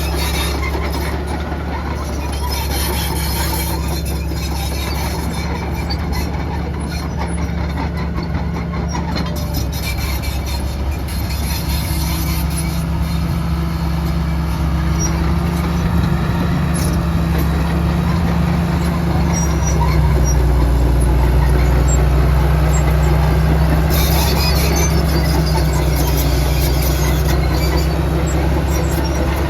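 Heavy diesel earthmoving machinery running steadily under load, with high-pitched squealing and hiss on top that come and go; the engine grows a little louder about two-thirds of the way through.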